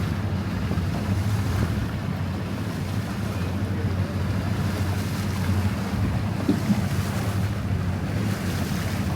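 Boat motor running steadily under way, with water rushing past and wind buffeting the microphone.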